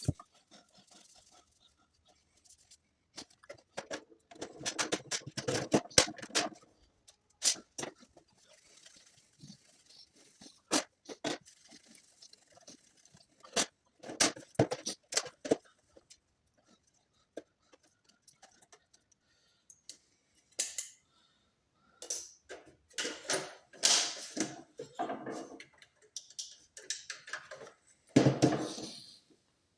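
Hands working on Xbox 360 hardware: irregular clicks, taps and short scraping rubs, with brief pauses between them.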